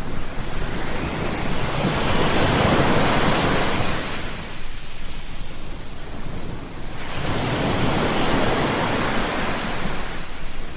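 Ocean surf: waves breaking and washing in, two swells of rushing water that rise and fade about five seconds apart.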